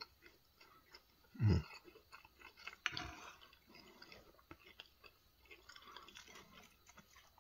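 A person chewing and smacking on a mouthful of okra fried rice, with soft wet mouth noises and a short, louder low mouth sound about a second and a half in. A sharp click about three seconds in fits a metal spoon being set down in the bowl.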